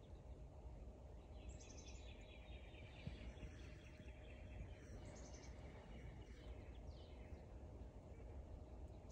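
Quiet outdoor ambience with faint, distant bird chirping: a few rapid runs of short high notes from about a second and a half in until about two seconds before the end.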